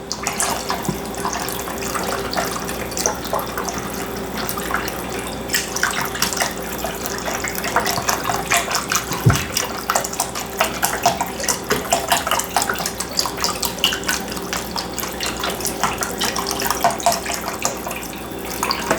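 Chicken broth poured from a carton into a soup pot: a steady splashing stream of liquid.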